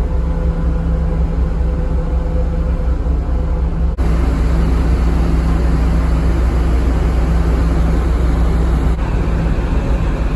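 Steady low drone of a car ferry's engines and machinery, a deep hum with a few held low tones under a wash of noise. About four seconds in it breaks off abruptly and resumes slightly louder.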